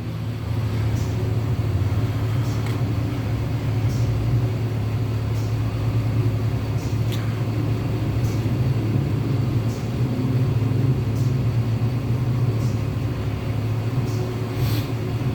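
Steady low mechanical hum, with faint ticks about every second and a half.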